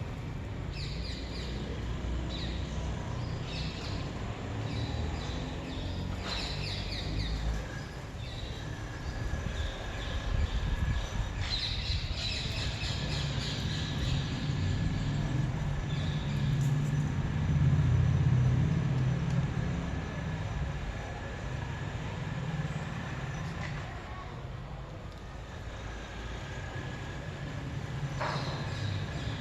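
Backyard ambience: small birds chirping in short repeated calls over a steady low rumble that swells about two-thirds of the way through, with a faint steady high tone underneath.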